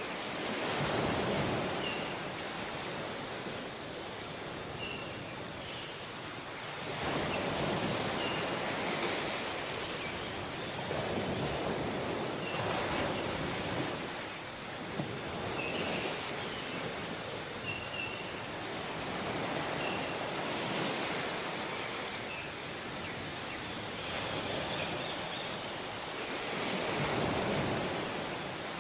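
Ocean surf breaking on a beach, each wave swelling and washing out every few seconds. Short, faint, high chirps are scattered through it.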